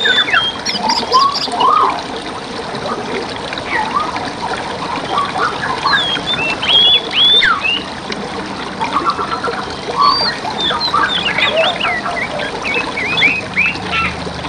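Several songbirds singing and calling at once, quick runs of chirps and rising and falling whistles, over the steady trickle of a forest stream.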